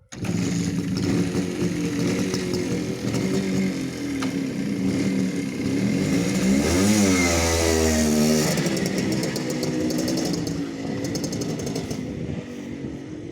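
Minsk two-stroke motorcycle engine running, starting suddenly, with its revs climbing and falling back about halfway through. A spell of fast, light clatter follows near the end.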